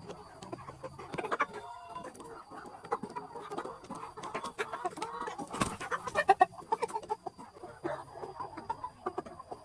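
Flock of capons clucking continually, with many small clicks and a single sharp knock a little past halfway.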